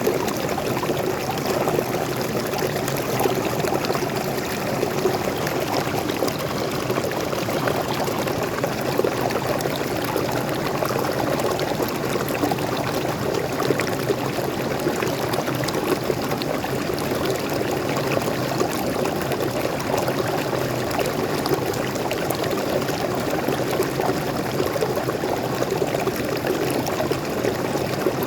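Small forest waterfall splashing and pouring steadily, a continuous rush of falling water.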